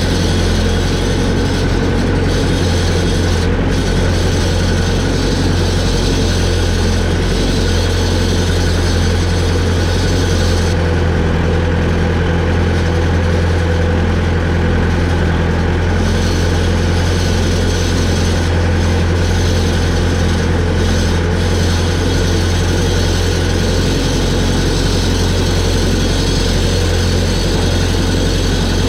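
Heavy engine running at a steady speed with a deep, even hum, most likely the tractor that was fired up to carry a hay bale.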